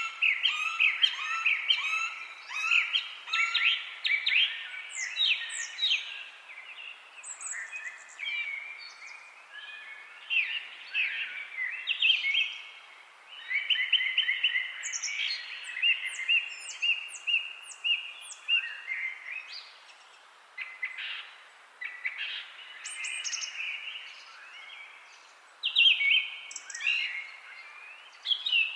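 Several songbirds chirping and singing together in an overlapping chorus of short chirps, quick up-and-down sweeps and fast trills, with some high thin notes sweeping down.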